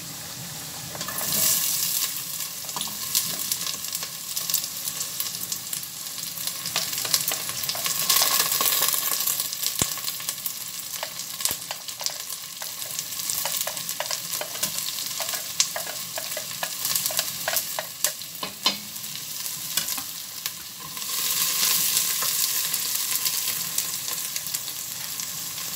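Chopped onions frying in hot oil with potato cubes deep-frying beside them: a steady sizzle that swells several times as the onions go into the oil. A wooden spoon scrapes and knocks on the metal tray and pot as the onions are pushed in and stirred, making many sharp clicks.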